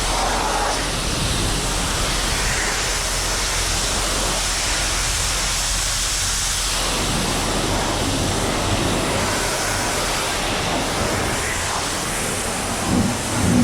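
Steady hiss of a high-pressure water spray, a self-serve car-wash wand rinsing the car. A few low thumps come near the end.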